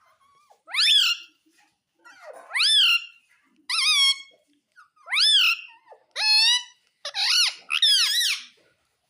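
Pet talking parrot giving a run of about seven short, high calls, each rising then falling in pitch, roughly one a second.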